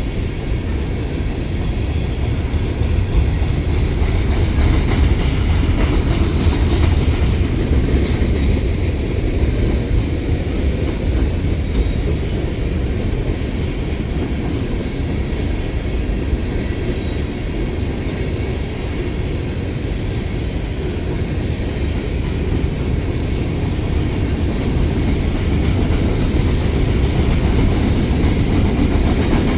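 Empty coal train rolling past: a steady rumble of steel wheels on the rails.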